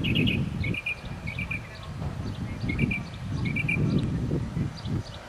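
A small bird chirping in quick groups of three or four high notes, repeated about every second, over a louder, uneven low rumble.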